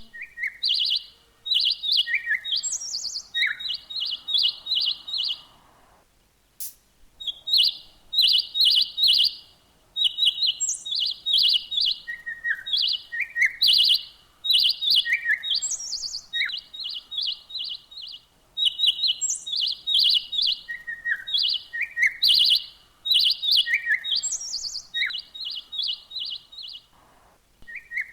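Songbird chirping in quick runs of short, repeated high notes, the phrases broken by single lower and higher notes, with a short pause about six seconds in.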